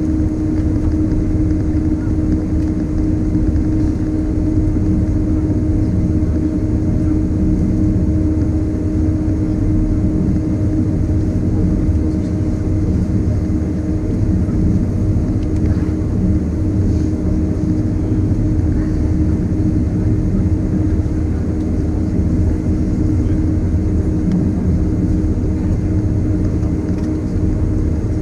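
Boeing 767-300ER airliner running steadily: a constant low rumble with a steady drone, not building up to take-off power.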